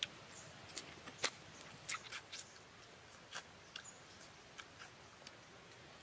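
A person eating close to the microphone, chewing cooked fish: irregular wet mouth clicks and lip smacks over a faint hiss.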